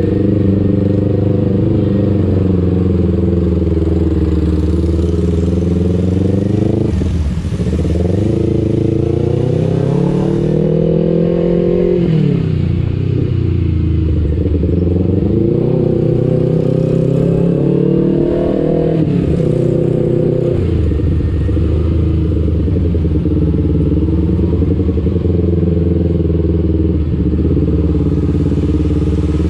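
Kawasaki Ninja 250 FI parallel-twin engine through an R9 H2 aftermarket exhaust, running under way with the engine note climbing and dropping several times with the throttle and gear changes. After about twenty seconds it settles into a steady, lower cruise note.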